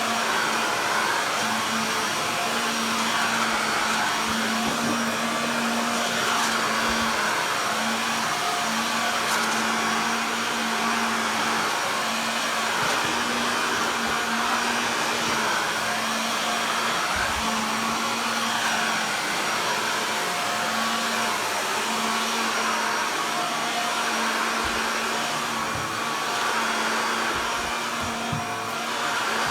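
Shark vacuum cleaner running steadily over bare floor: an even rush of suction air over a constant motor hum.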